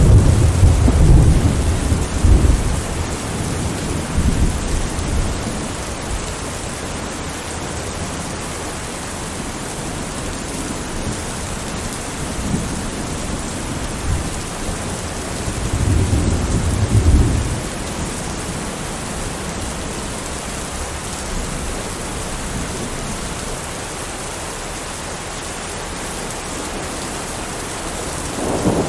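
Thunderstorm: steady rain with low rolls of thunder. One rumble at the start, another about halfway through, and a third starting near the end.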